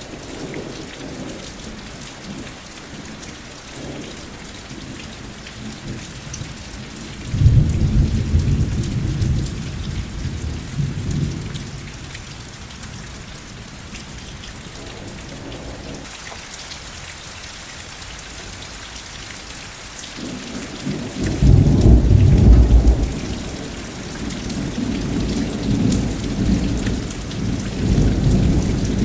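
Steady rain hissing, with two rolls of thunder: one starts suddenly about a quarter of the way in and fades over a few seconds, and a louder one comes about two-thirds of the way through, then keeps rumbling to the end.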